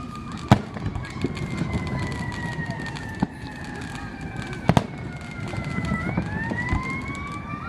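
Fireworks going off, with two loud bangs about half a second in and just before five seconds and smaller pops between, while a siren wails, its pitch falling slowly and then rising again about six seconds in.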